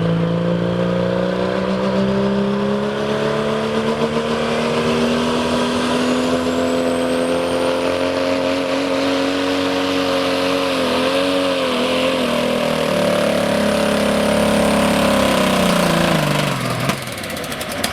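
Diesel 4x4 pickup truck (2.6-inch turbo class) pulling the sled at full throttle, engine running hard and steady with a brief waver in pitch partway through. Near the end the engine note drops away sharply as the run ends in a breakage the announcer puts at $4,500 to $5,000.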